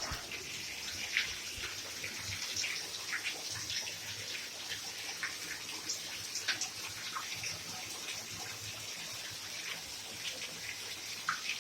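Water running and splashing steadily, with many small plinks and splashes.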